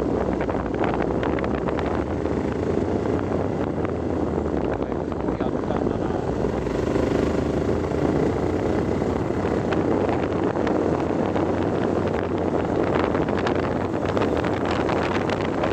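A vehicle driving along an unpaved forest road: a steady engine drone with a constant rushing noise and small crackles throughout, like stones and grit under the tyres.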